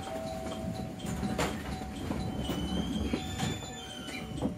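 Electric commuter train slowing into a station platform, heard from inside the car. A steady running rumble and hum, a couple of sharp clicks from the wheels, and thin high squeals in the second half as it brakes.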